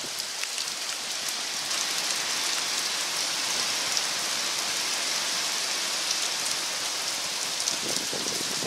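Heavy hurricane rain pouring down steadily: a dense, even hiss with faint scattered drop ticks.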